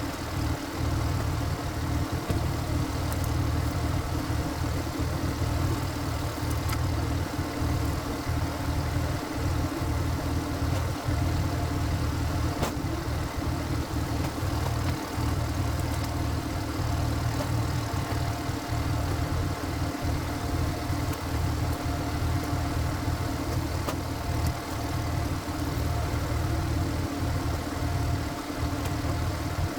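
A Korean walking tractor's single-cylinder diesel engine running steadily, powering the splitting of tough black locust logs.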